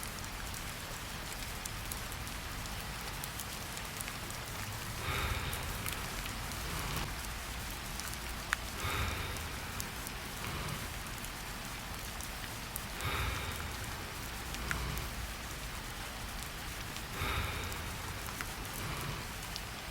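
Steady rain falling. Slow, soft breaths come through it, about one every four seconds.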